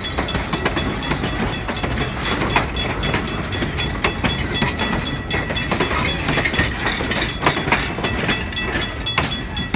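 Conway Scenic Railway passenger train running along the track: a steady rumble with a rapid, continuous run of wheel clicks over the rails and a thin, steady high-pitched tone.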